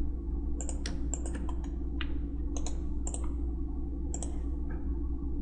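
Irregular clicking of a computer mouse and keyboard: about a dozen sharp clicks, some in quick pairs and runs, over a steady low electrical hum.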